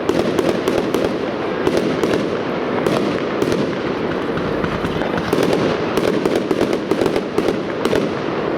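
Fireworks display in full barrage: a dense, unbroken stream of sharp bangs and crackling from bursting shells, many reports a second over a continuous rumble.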